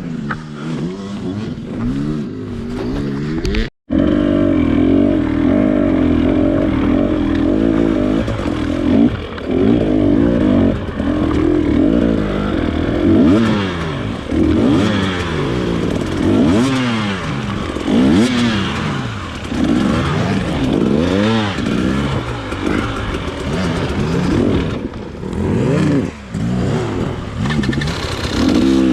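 Off-road motorcycle engine under way, its pitch rising and falling again and again as the throttle is opened and closed. The sound cuts out for an instant about four seconds in.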